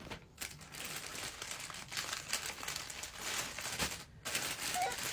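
Packaging crinkling and rustling as baby clothes are handled and unwrapped, stopping briefly about four seconds in.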